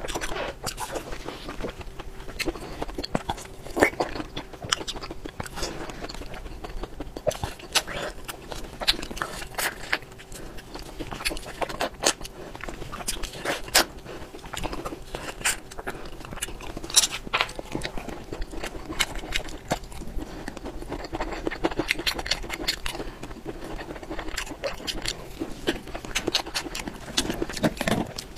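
Close-miked eating sounds: a person chewing food, with frequent irregular wet mouth clicks and smacks.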